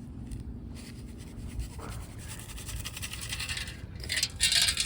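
Scraping and rubbing of a hand digging tool working through loose playground ground while recovering a detector target, with louder scraping strokes near the end.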